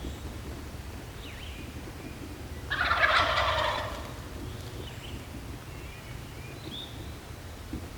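A wild turkey gobbler gobbles once, a rattling call about a second long starting nearly three seconds in. Small songbirds chirp faintly around it.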